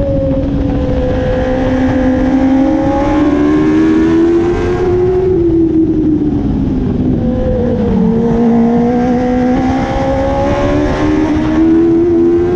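Dwarf race car's motorcycle-derived engine running hard, its pitch rising under acceleration, dropping as it backs off, then rising again.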